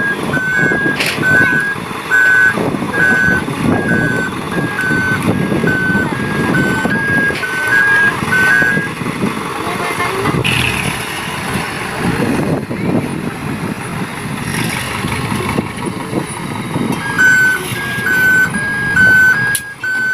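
Dump truck reversing, its reversing alarm beeping in an alternating two-note pattern about twice a second over the running diesel engine. The beeping stops for several seconds partway through, then starts again near the end.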